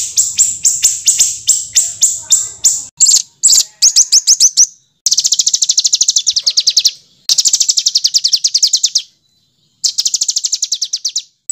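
A small songbird's harsh, rapid phrases of repeated high notes, each phrase lasting about two seconds with brief pauses between. The notes start at about four or five a second and speed up to about ten a second in the later phrases.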